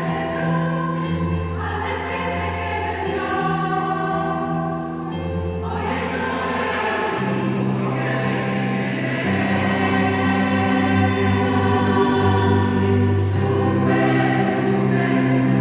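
A choir singing in parts, holding long chords that change every second or two. It grows louder in the second half.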